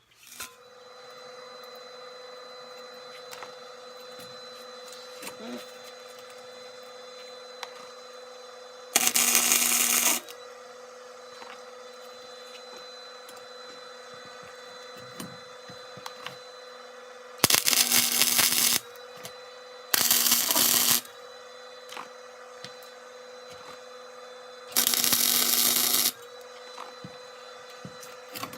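A shop machine hums steadily, broken four times by loud, harsh bursts about a second long each, as metal is worked on exhaust pipe.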